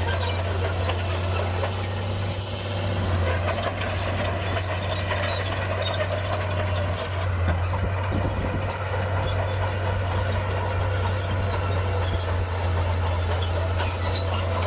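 Heavy earthmoving machine's diesel engine running steadily with a deep drone, with scattered clicks and clanks over it.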